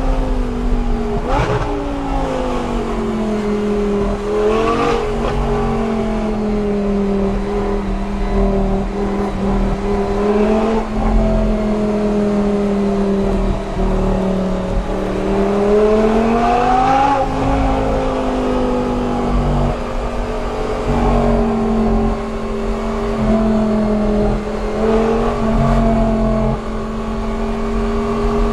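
Audi R8 V10 with an aftermarket Per4mance exhaust, its engine running steadily at moderate revs. The pitch swells and eases back several times.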